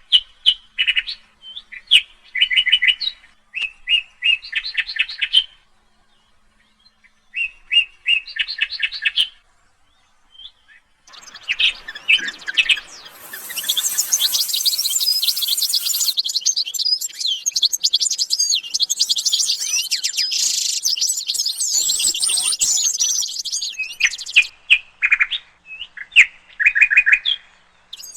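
Small songbirds singing: short, rapid trills in separate phrases, then from about eleven seconds in a dense chorus of many overlapping high chirps lasting some twelve seconds, before single trills return near the end.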